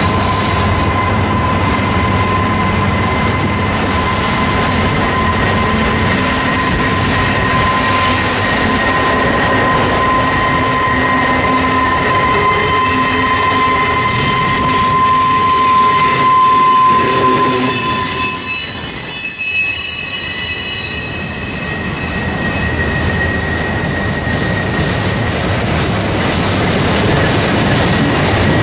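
Freight train of autorack cars and empty flatcars rolling past with wheels squealing. A steady high squeal holds for about two-thirds of the time, then fades and gives way to several higher, thinner squeals over the continuous rumble and clatter of the cars.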